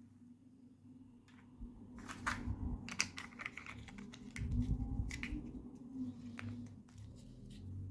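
Small plastic toy pieces and packaging being handled: a string of light, irregular clicks and taps, busiest a couple of seconds in, over a faint steady hum.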